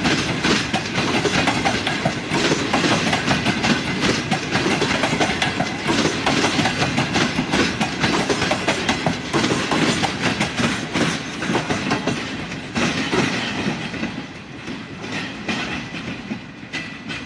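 Greenline Express train passing close by, its wheels clattering rapidly over the rail joints. The sound fades in the last few seconds as the train draws away.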